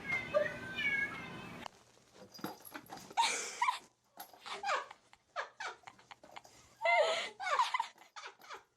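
A dog whining in short, squeaky cries, in two bursts, among scattered clicks and knocks. Before them come a few quick falling chirps from another animal, cut off suddenly.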